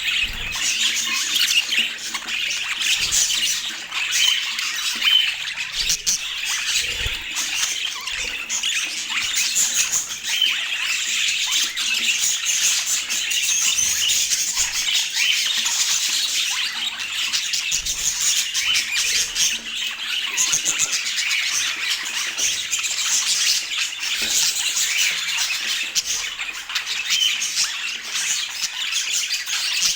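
Pet budgerigars chattering: a dense, unbroken stream of short high calls.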